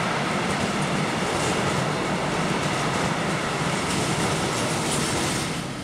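A train passing on the rails, a steady loud rush of wheel and rail noise that falls away near the end.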